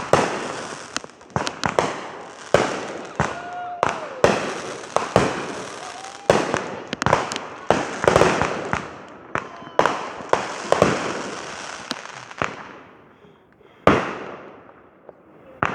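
Aerial fireworks show: rapid, overlapping bangs with crackling hiss trailing after them, thinning out in the last few seconds to a single loud bang.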